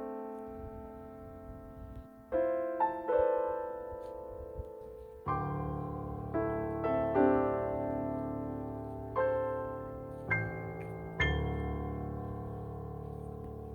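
Slow solo piano music: single notes and chords struck every second or so, each left to ring out and fade, the last chord dying away near the end.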